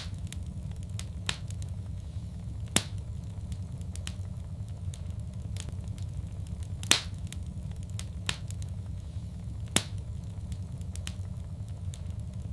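Fire crackling in a fireplace: sharp, irregular pops every second or so, a few louder snaps among them, over a steady low rumble of the flames.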